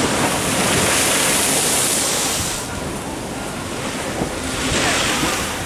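Ocean surf washing in against the shore, in two swells of hissing water: a long one over the first two and a half seconds and a shorter one near the end. Wind is blowing on the microphone.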